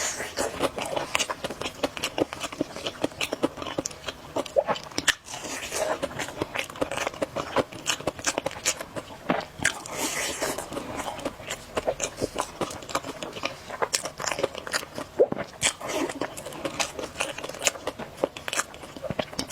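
A person chewing and biting food close to the microphone, in a dense, irregular run of wet mouth clicks and smacks.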